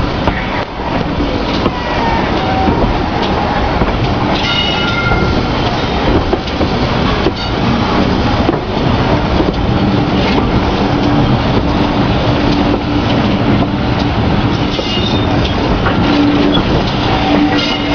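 Steam-hauled heritage passenger train running, heard from an open carriage window: a steady, loud rumbling noise of the carriages travelling over the track, with a few brief high-pitched tones.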